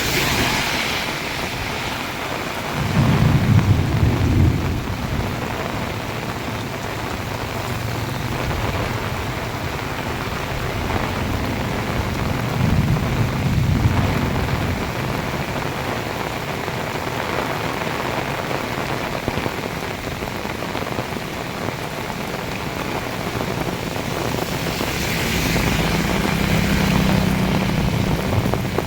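Heavy rain pouring steadily, with two short low rumbles, about three seconds in and again about ten seconds later. A low steady hum joins near the end.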